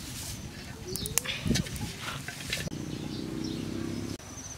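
Birds calling outdoors, with a few knocks and thumps in the first half and a steady low tone lasting about a second and a half that cuts off suddenly.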